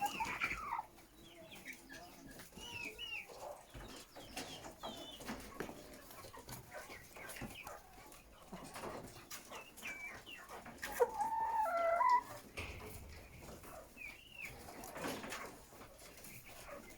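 A flock of chickens clucking and calling in short scattered calls, with one louder, drawn-out call about eleven seconds in.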